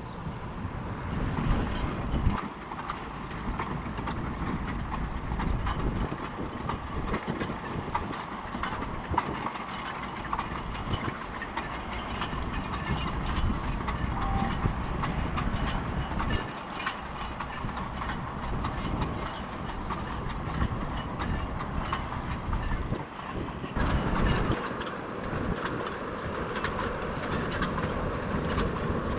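Narrow gauge industrial train running, its wagons' wheels clattering over the rail joints with many short clicks over a steady rumble. The sound changes abruptly twice, about two seconds in and near the end.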